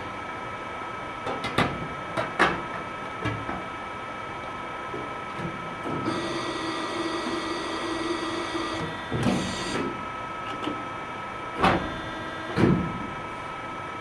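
Several sharp knocks of wood being handled. About halfway through, a small power-tool motor runs for roughly three seconds, followed by a shorter second burst.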